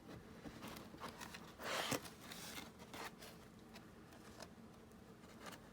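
Paper pages of a handmade journal being handled and shifted, with one brief rustle about two seconds in and a few faint taps.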